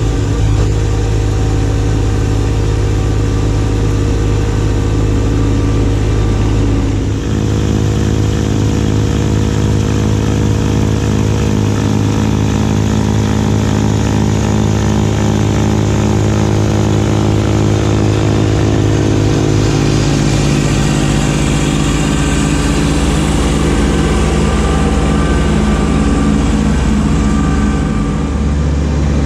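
Kubota B2601 compact tractor's three-cylinder diesel running steadily under load with the B2782B snowblower. The engine note shifts about seven seconds in and again near twenty seconds.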